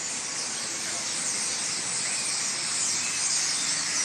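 A large flock of birds chirping all at once, a dense steady high-pitched twittering with a few single calls standing out.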